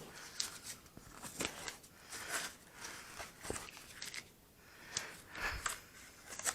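Masking tape being peeled off the balsa leading and trailing edges of a model airplane's horizontal stabilizer: short, faint, irregular ripping and crinkling strokes with light handling of the part.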